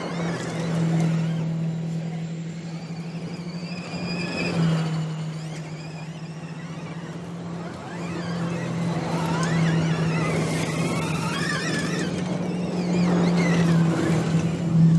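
Audi RS Q e-tron Dakar rally car driving off-road: a steady low drone runs throughout, while a high electric-drive whine rises and falls as the car speeds up and slows down.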